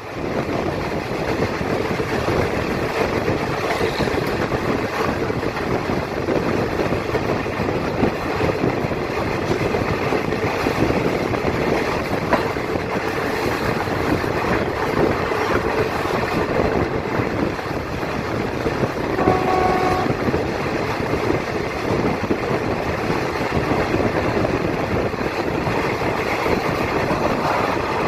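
Passenger train running along the track, heard from on board: a steady rumble of wheels on rails, with a short horn toot about two-thirds of the way through.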